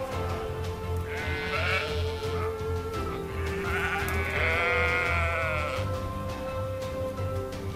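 Sheep bleating twice over background music; the second bleat is longer and wavers in pitch.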